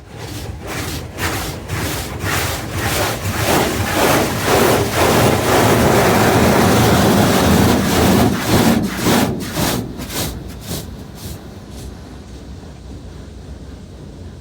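High-pressure water jets of a touchless automatic car wash blasting a pickup truck, heard from inside the cab as a pulsing, rushing spray. It builds to its loudest midway as the jets pass over the cab, then fades toward the end as they move off.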